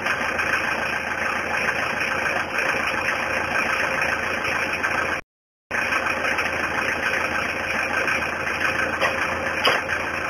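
Mazda 626 diesel engine idling steadily, heard at the exhaust. The sound drops out completely for about half a second roughly five seconds in, then the same steady running resumes.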